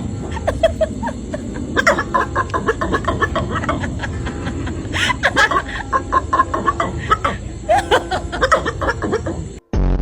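Dog making quick runs of short, laugh-like sounds over a steady noisy background. Near the end it cuts off and a loud, steady buzzy tone starts.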